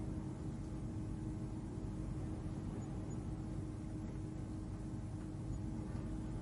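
Steady ambient space hum: a deep, even rumble with a constant droning tone over it, unchanging, like the interior drone of a spacecraft cabin.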